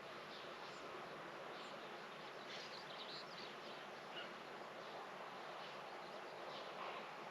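Faint outdoor garden ambience: a steady background hiss with a few faint bird chirps, a cluster about two and a half to three seconds in and one more about a second later.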